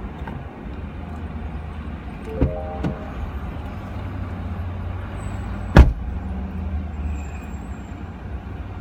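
Car engine idling with a steady low hum. A couple of soft clicks with a brief squeak come a few seconds in, and a single loud thump comes near six seconds in.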